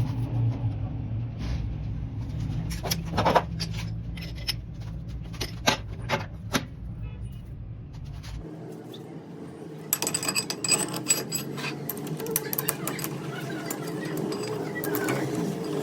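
Workshop machine running with a steady low hum, with scattered metallic clicks and knocks. About halfway through the hum stops abruptly, and rapid light metal clicking and tapping follow over a steadier, higher sound.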